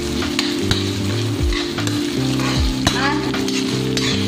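Chopped garlic, onion and chili sizzling in hot oil in a metal wok while being stirred, with scattered sharp clicks and scrapes against the pan. Under it run steady low notes and a regular low beat like background music.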